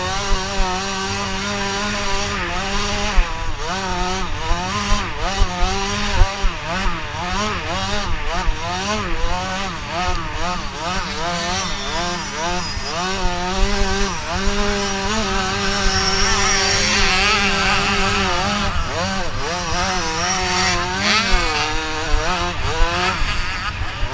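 Motocross bike engines revving, the pitch rising and falling again and again as the throttle is worked, with a steadier engine note underneath that cuts in and out.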